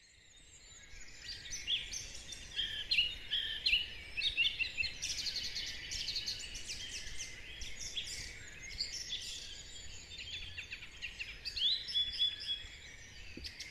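A dawn chorus: many songbirds singing at once, with overlapping quick chirps and rising and falling whistles, fading in from silence at the start.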